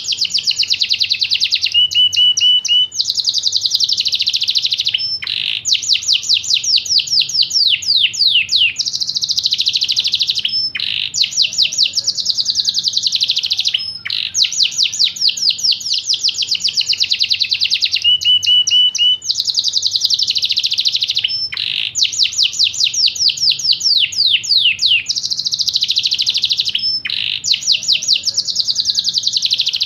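Yorkshire canary singing a long, unbroken song of rapid, high trills, one phrase running into the next with only brief breaks.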